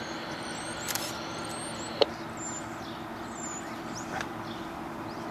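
A steady low hum with a few faint high chirps, and a single sharp click about two seconds in.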